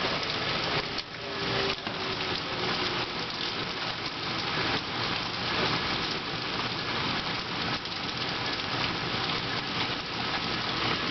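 Heavy rain pouring down steadily in a thunderstorm, a dense even hiss with no let-up.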